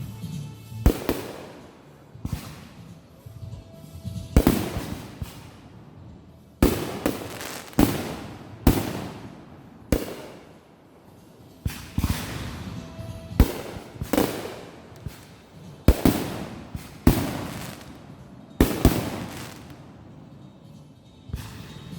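Consumer fireworks going off in a run of sharp bangs, about one a second with a short lull about halfway through, each bang trailing off in a crackling, echoing decay.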